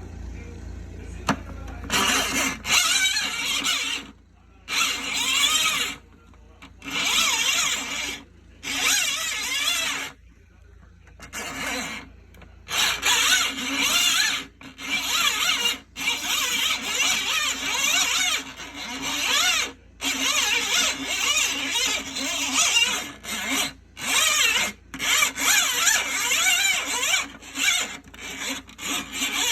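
Repeated bursts of shrill squeaking and scraping, each lasting one to two seconds with short gaps, the pitch wavering constantly.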